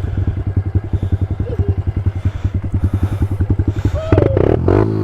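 Single-cylinder four-stroke pit bike engine idling with an even beat of about a dozen pulses a second, then revved up about four seconds in.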